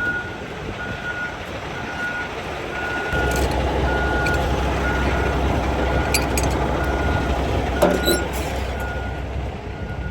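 Vehicle reverse alarm beeping about twice a second at a steady pitch. About three seconds in, an engine starts running underneath it, with a few short metallic clanks.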